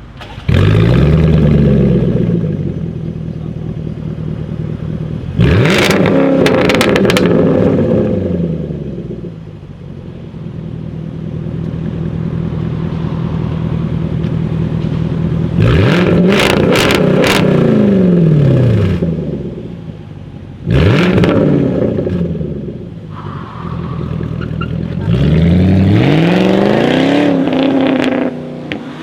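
Jaguar F-Type R's supercharged V8, breathing through a Larini straight-pipe exhaust, is revved hard about five times, each rev rising and falling in pitch. Several of the revs carry sharp crackles and bangs from the exhaust.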